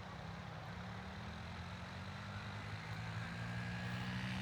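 Engine of a small off-road vehicle running at a distance and growing gradually louder as it comes closer.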